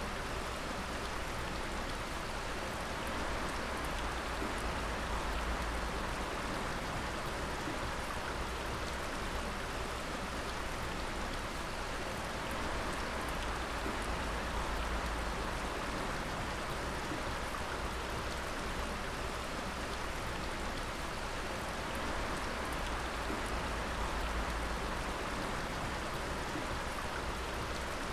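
Water dripping steadily, many drops together making an even, rain-like hiss with faint individual drips.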